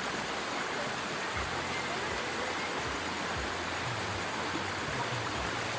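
River water flowing, a steady rush.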